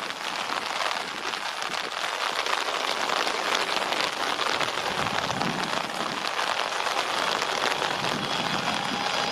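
Heavy rain falling steadily, with the takeoff roar of a Boeing 787-8's jet engines building under it and slowly growing louder as the aircraft rolls and lifts off.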